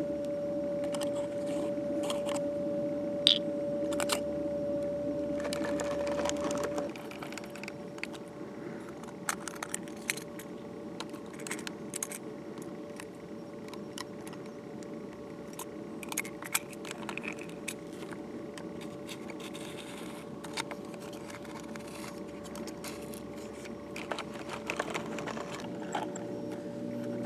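Scattered small clicks and light rattles, over a steady hum that drops away about seven seconds in.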